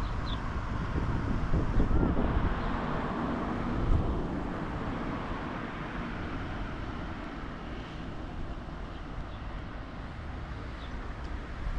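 A vehicle passing: a broad engine and road noise that swells a couple of seconds in and fades away over the following seconds.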